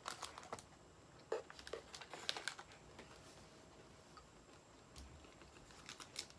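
Faint, scattered light clicks and rustles of snack packaging being handled.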